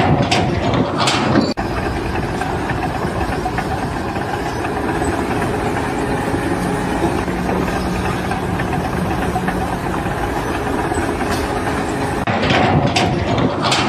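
Engine of construction machinery running steadily, with a brief break about a second and a half in.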